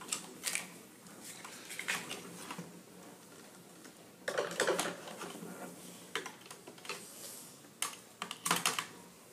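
Small plastic toy pieces being handled, with scattered light clicks and taps as they knock together.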